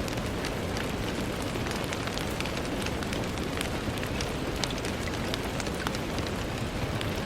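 Steady rain on a window: a continuous even hiss dotted with many small, sharp drop ticks.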